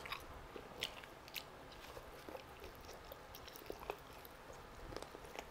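Close-miked chewing and biting of roasted chicken drumstick meat: soft wet mouth sounds with scattered small clicks, a couple of sharper ones in the first second and a half.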